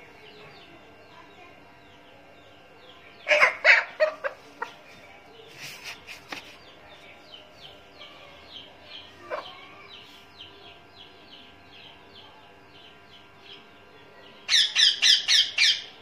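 Birds chirping: a steady run of short, falling chirps, with two louder bouts of quick, repeated calls, one about three seconds in and one near the end.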